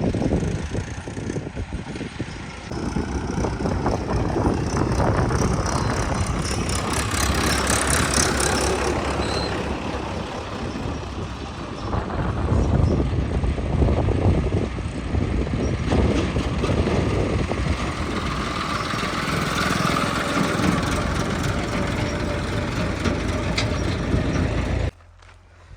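JCB 3DX backhoe loader's diesel engine running and working under changing load, loud throughout, with a few knocks. The sound cuts off suddenly near the end.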